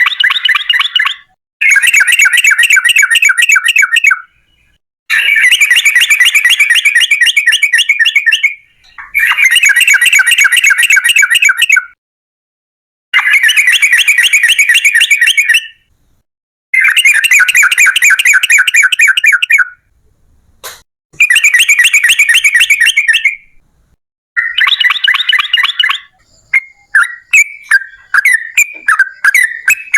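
Yellow-vented bulbul (trucukan) singing its long, fast chattering song in loud bouts of a few seconds each, separated by short pauses. Near the end it breaks into looser, separate chirps.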